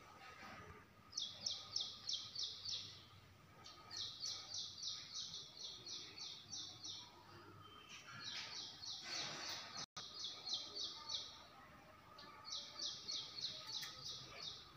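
A bird calling in rapid runs of short, high chirps, about seven a second. There are four runs, each lasting two to three seconds.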